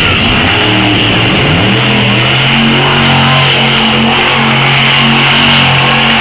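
Monster truck engine revving in a few quick rises and falls, then held at a steady high pitch for several seconds.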